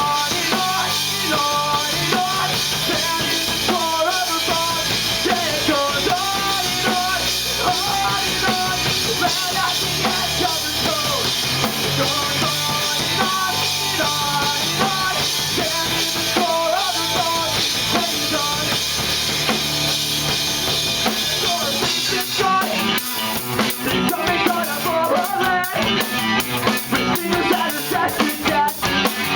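Live rock band of electric guitar, bass and drum kit playing a song. About two-thirds of the way through, the drums come forward with hard, rapid hits.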